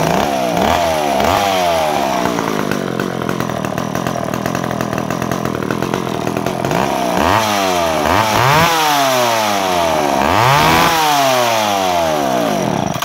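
Restored late-1970s McCulloch Mac 10-10 two-stroke chainsaw running, its throttle blipped again and again so the revs climb and fall back, with a steadier stretch in the middle. It cuts off abruptly near the end.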